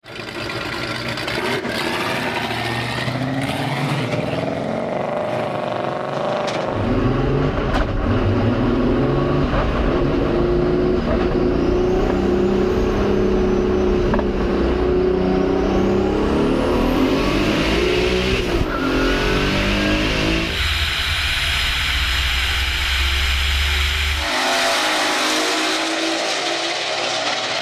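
Twin-engine Volkswagen with two VR6 engines accelerating hard on a drag run. The revs climb and drop back at several gear changes.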